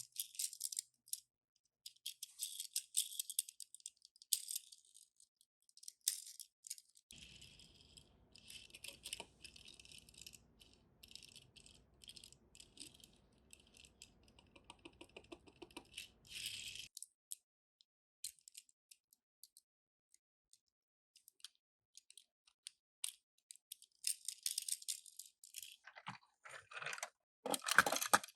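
Die-cast toy cars and their packaging being handled, with quick light rattling, clicking and crinkling in irregular flurries. The sounds are busiest near the end.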